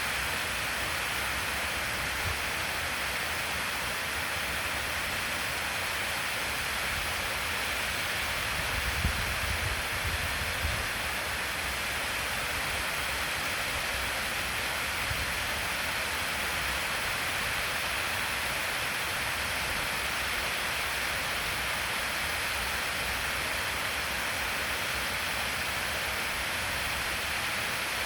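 Waterfall: a steady rush of falling water, with a few brief low bumps about nine to eleven seconds in.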